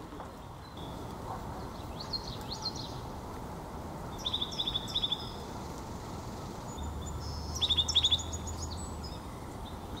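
Small songbird calling: three short bursts of rapid high chips, about two, four-and-a-half and eight seconds in, the last the loudest, over a steady low background rumble.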